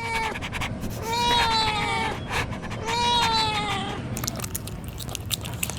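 Kitten meowing: two long, high meows of about a second each, falling slightly in pitch, then a run of quick sharp clicks near the end.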